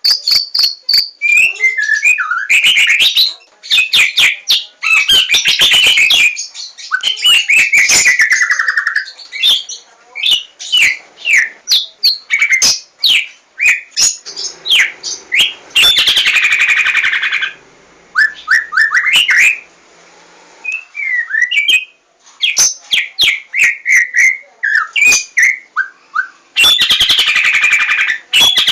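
White-rumped shama of the Javan 'larwo' type singing a long, varied song: loud clear whistles and quick sliding notes, broken several times by harsh, rasping chatter lasting a second or two.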